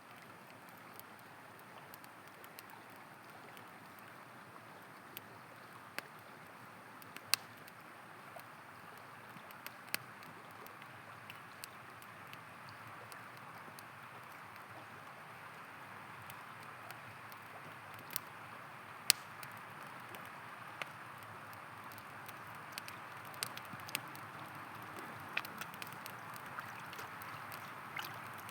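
A river flowing steadily, with a wood campfire crackling over it in sharp, irregular pops; the loudest pops come about seven seconds in and about two-thirds of the way through.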